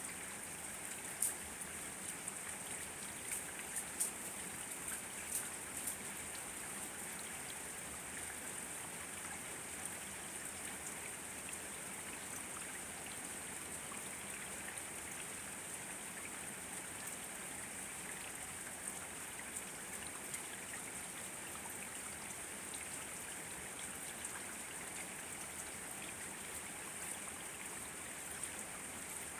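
Steady rain falling in an even hiss, with individual drops ticking sharply here and there, most often in the first few seconds.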